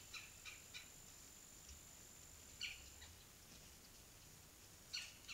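Faint short bird calls: three quick notes in the first second, one about two and a half seconds in and another near the end, over a thin steady high whine.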